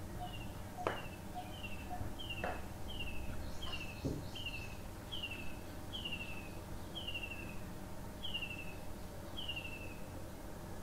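A bird calling over and over: a short, high, falling chirp repeated about a dozen times, close to two a second at first and spacing out toward the end. A few soft clicks come in the first four seconds, over a low steady hum.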